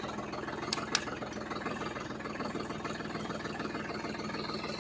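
Tractor engine running steadily at low revs, with two sharp clicks about a second in.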